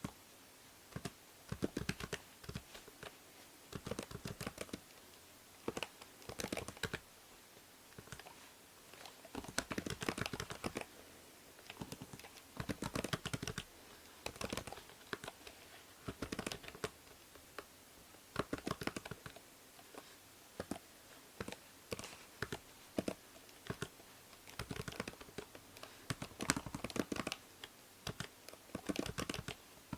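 Typing on a computer keyboard: bursts of quick keystrokes broken by short pauses, over a steady faint hiss from the binaural microphone.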